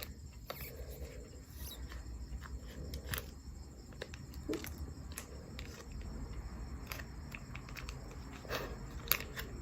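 A wet sheet face mask being unfolded and laid on the face: faint scattered clicks and soft handling noises over a steady low hum.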